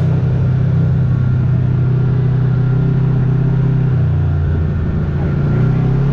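Kawasaki KRX side-by-side's parallel-twin engine running steadily under way; its note drops about four seconds in as the throttle eases, then picks back up near the end.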